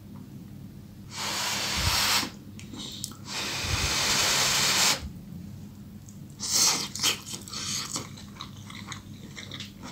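Close-miked eating of a soft cabbage and minced-meat roll: two long hissing noises of about a second each, then a run of quick, irregular chewing clicks.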